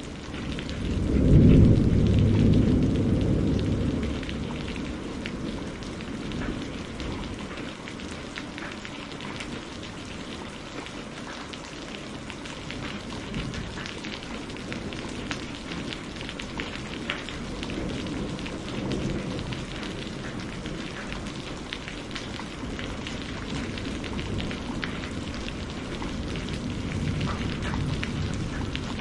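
Steady rain falling on a surface, with many separate drops ticking. A low rumble of thunder swells about a second in and fades over a few seconds, with fainter rumbles near the middle and the end.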